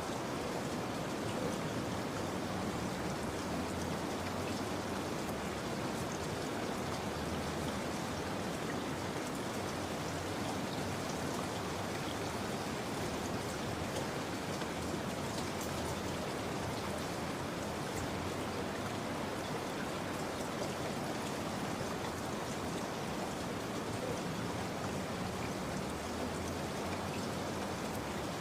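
Steady rainfall, an even hiss of rain with fine droplet patter.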